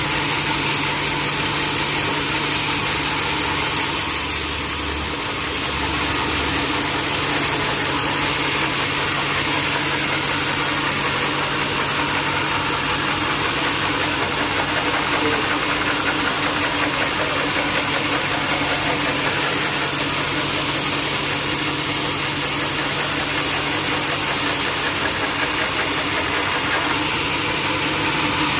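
Sawmill machinery running steadily: a constant motor hum under an even, unchanging noise, with no starts, stops or changes in load.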